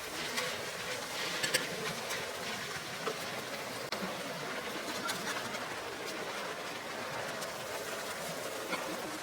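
Steady rain hiss with a few sharper drop hits standing out now and then.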